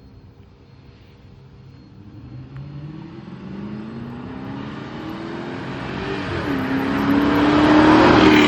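Chrysler 300C's Hemi V8, its mid muffler deleted, accelerating hard: the exhaust note climbs steadily in pitch and grows louder, with a brief dip in pitch about six seconds in, peaking at the end.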